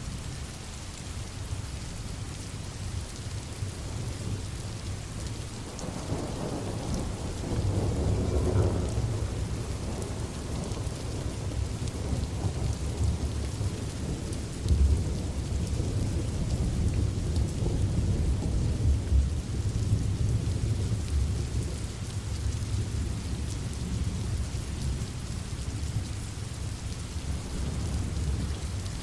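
Steady rain hissing, with low thunder rumbling in that swells about six seconds in and keeps rolling through the middle.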